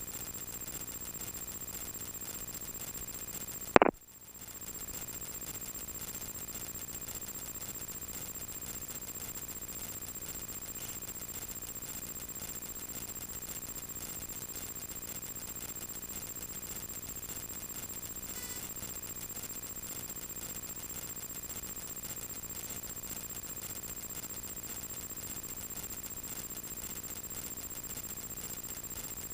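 Steady hiss and electrical whine of a light aircraft's intercom audio feed, with one sharp click about four seconds in.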